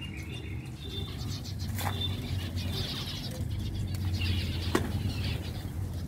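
Aviary birds fluttering their wings and chirping, with two sharp knocks, the second, near the end, the loudest.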